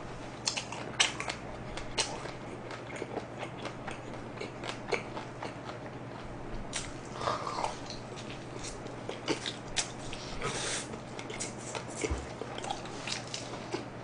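Close-up chewing and biting of a jalapeño fries pizza slice: many irregular short crunches and wet mouth clicks, with a low steady hum underneath.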